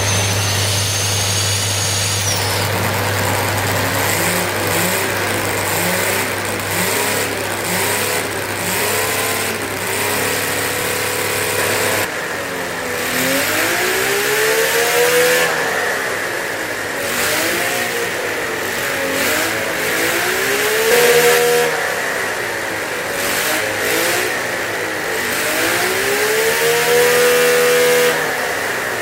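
An 87cc air-cooled model V12 glow engine, running on methanol–nitromethane fuel, revved up and down repeatedly. Its note rises and falls in several long sweeps, a few seconds each, and the revs swing wider and higher in the second half.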